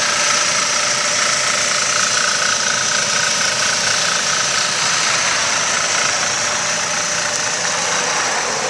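Car engine idling steadily in the open engine bay, shortly after a cold start and running smoothly.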